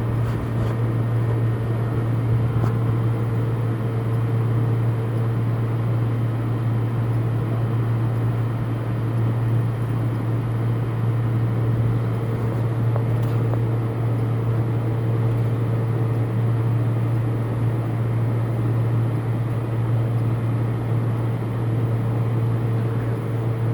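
Steady low mechanical hum with a rushing noise, unchanging throughout; no bird calls stand out.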